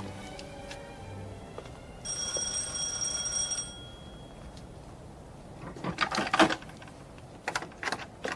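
An electric doorbell rings once, a steady bell tone lasting about a second and a half. A few seconds later come several clusters of sharp clicks and knocks.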